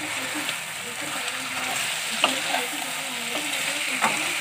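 Raw chicken pieces sizzling in hot oil and fried onions in a kadhai as they are stirred, a steady frying hiss with three sharp knocks against the pan.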